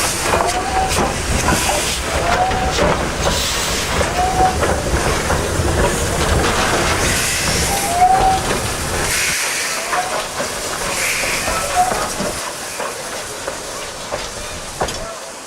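Steam-hauled train running, with steam hiss and rail noise. A low rumble drops away about nine seconds in, and short squeaks recur every couple of seconds.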